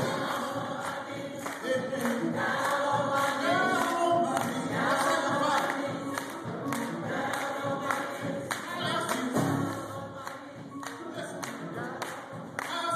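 Choir singing gospel music, many voices together.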